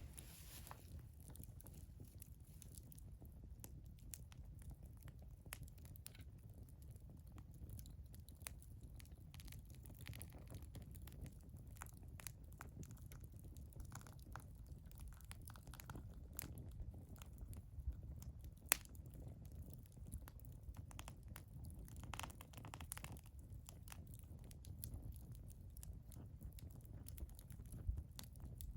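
Wood fire crackling, with scattered sharp pops and a louder pop about two-thirds of the way through, over a low steady rumble.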